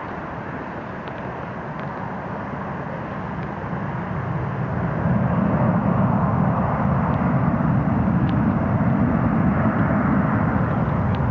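Boeing 777-200 jet engines: a broad, steady rumble that swells about four to five seconds in and then stays loud.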